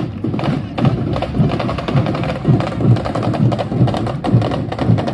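Drums and percussion playing a steady rhythm: sharp clicks over low drum hits.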